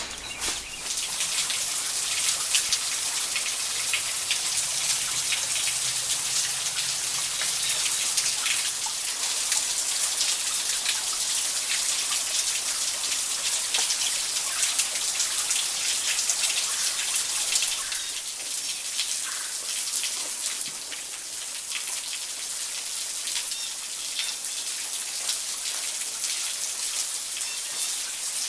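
Rain falling steadily, with many separate drops pattering close by. It starts abruptly about half a second in and eases slightly in the last third.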